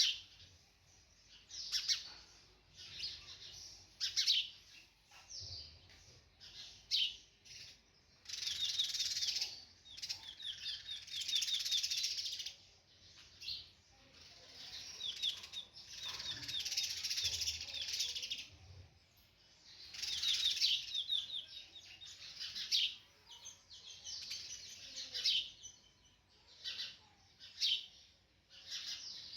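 Sunbird calling: high-pitched chirps and quick trills in bursts every few seconds, with longer runs of rapid trilling.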